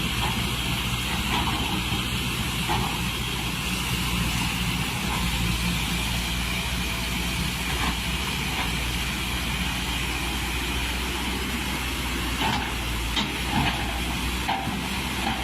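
Excavator's diesel engine running steadily, with a constant low hum and a steady higher hiss, and a few short knocks near the end.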